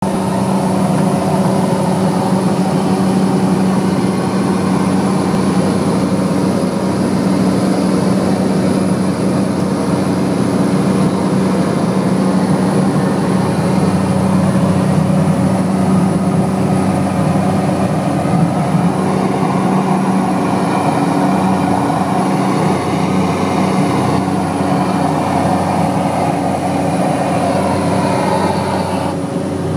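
Propeller airplane engine running steadily at high power during takeoff, a continuous loud drone with a low hum and engine noise.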